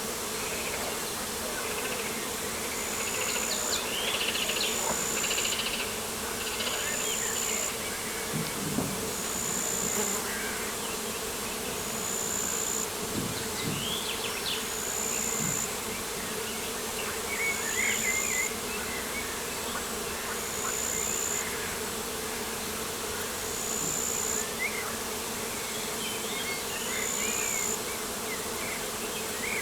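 Outdoor ambience of insects buzzing in a steady drone. From about three seconds in, a short high-pitched note repeats about every second and a half, with scattered bird chirps in between.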